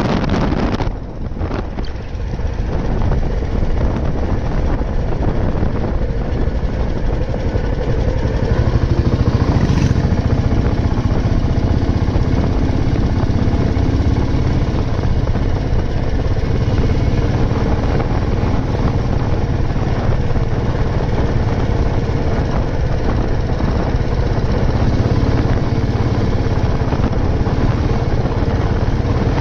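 Old Royal Enfield Bullet 350's single-cylinder four-stroke engine running steadily under way. It dips briefly about a second in and runs louder from about eight seconds in.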